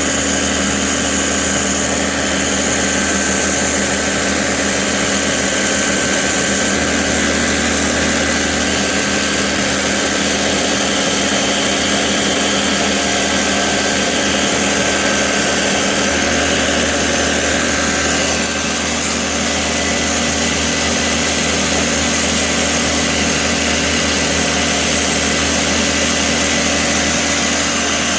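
Homemade belt sander, an electric motor driving a car timing belt faced with sandpaper, running steadily with a constant hum and whir.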